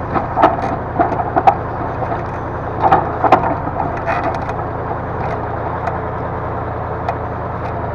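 Diesel engine of a timber loader crane running steadily, with sharp wooden knocks and clacks as logs are gripped and dropped, most of them in the first half.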